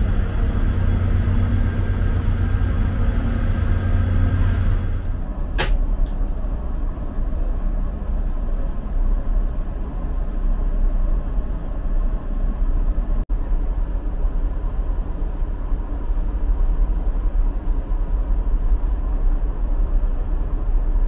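Steady low rumble and noise of a VIA Rail passenger train heard from inside the car. A steady hum stops about five seconds in, followed by a single sharp click, and the sound cuts out for an instant around the middle.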